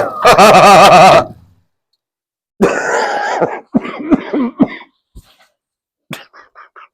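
A man coughs and clears his throat, opening with a loud wavering groan, as he chokes on chimney soot and powder blown into his face from a collapsing flue.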